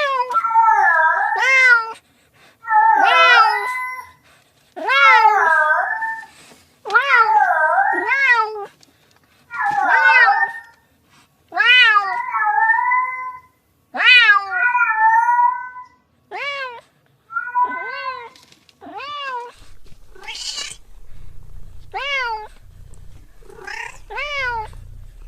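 Domestic cat meowing over and over: drawn-out meows that rise and fall in pitch, about one every two seconds, some overlapping each other, then shorter meows in the second half. A low rumble joins in for the last few seconds.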